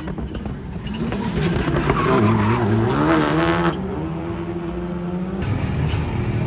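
Rally car engine revving up and down through a corner, the pitch rising and falling with gear changes, with tyre noise on the track. About five seconds in the sound changes to a lower, steadier engine note.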